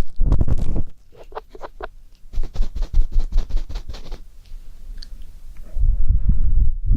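Ear-cleaning ASMR: an ear pick scraping and rubbing against the microphone, in quick scratchy strokes, with heavy low rumbling from contact with the microphone at the start and again near the end.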